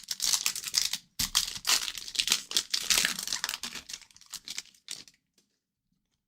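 Foil wrapper of a hockey card pack being torn open and crinkled, a dense crackly rustling that stops abruptly about five seconds in.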